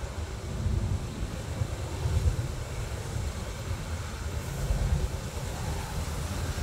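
Low, uneven rumble of an approaching BNSF freight train's diesel locomotives, mixed with wind buffeting the microphone.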